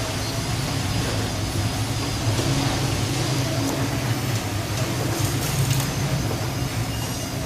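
Steady low engine drone with a rushing noise over it, unchanging throughout.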